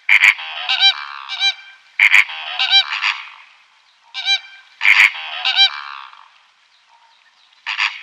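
Flamingos honking: repeated nasal, goose-like calls that overlap one another, in loud clusters about every two to three seconds, with one last call near the end.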